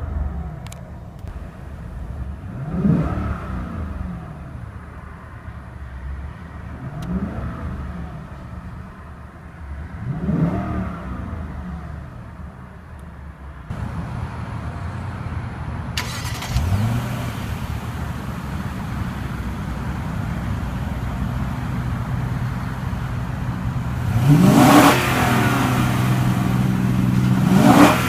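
Lexus LS 460 F Sport's 4.6-litre V8 idling and being revved in short blips, each rising in pitch and falling back to idle, about every three to four seconds. From about halfway the idle is louder and steadier, and two sharper blips come near the end.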